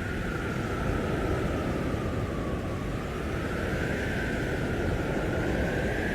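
Blizzard wind blowing hard and steadily, with a howling whistle that slowly rises and falls in pitch over the continuous rush.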